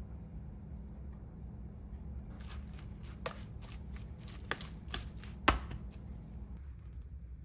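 An irregular run of sharp clicks and knocks from kitchen handling of food and utensils, one knock louder than the rest near the middle, over a steady low hum that stops near the end.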